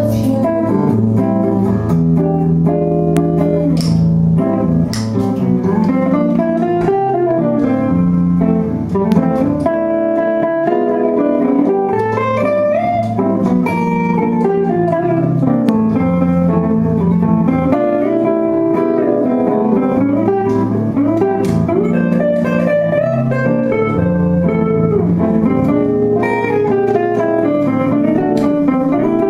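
A live band playing a song, with guitar to the fore over a bass line.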